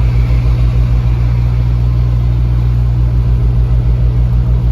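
Truck engine and road noise heard from inside the moving cab: a steady low drone with a low throb pulsing several times a second.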